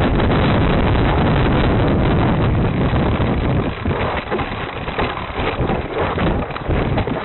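Wind buffeting the microphone of a camera riding along on a moving bike, loud and steady for the first few seconds, then gusting on and off.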